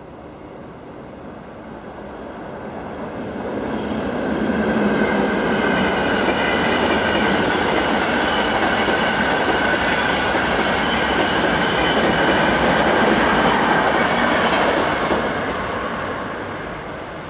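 A train running through a station, its rumble swelling over the first few seconds, staying loud for about ten seconds and fading near the end. Several steady high tones from the wheels and rails ring over the rumble while it is close.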